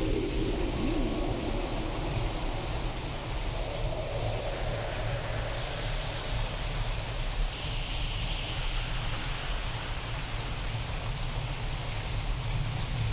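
Steady rain from a storm recording processed with sound-design effects to sound alien, over a constant low rumble. A short gliding tone sounds just after the start.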